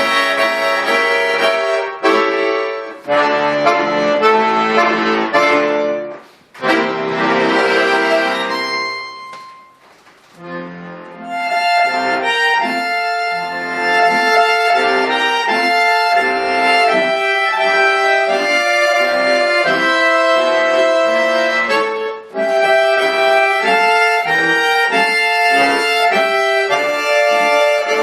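Bayan (Russian button accordion) playing solo: full chords in short phrases, fading to a brief pause about a third of the way in, then a busier run of melody over chords with one short break near the end.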